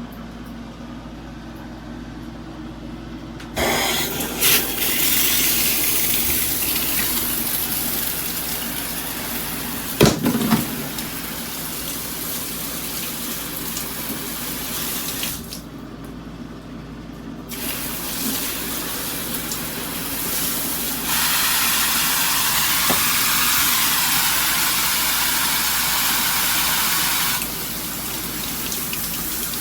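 Water spraying from a handheld filtered shower head, starting about three and a half seconds in. The spray stops briefly near the middle, and its sound changes several times, with a stronger stretch near the end; there is a single knock about ten seconds in.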